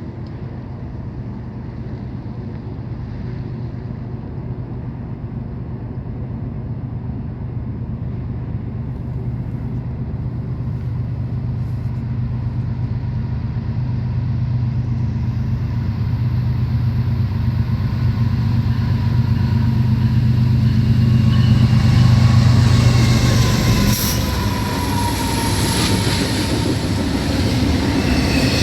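CN freight train approaching and passing: the diesel locomotives' low engine drone grows steadily louder and peaks a little over twenty seconds in, with a falling pitch as they go by, then the steel wheels of the cars take over with high-pitched ringing and clatter on the rails.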